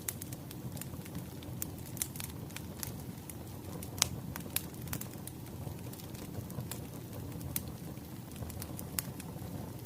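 Firewood fire crackling: a steady low rumble of burning wood with irregular sharp pops, the loudest about four seconds in.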